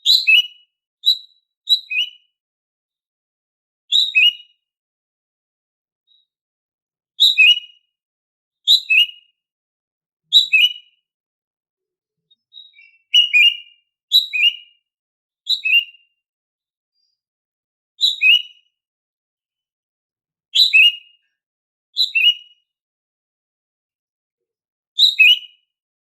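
Female greater green leafbird (cucak ijo) giving her everyday call: short, clear two-note chirps, a high note dropping to a lower one, repeated every one to three seconds with pauses between.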